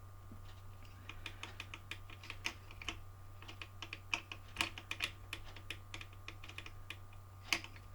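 Irregular light clicks and taps of small hard parts being handled, a few a second, as the motor and pinion are moved to set the gear mesh. A faint steady low hum runs underneath.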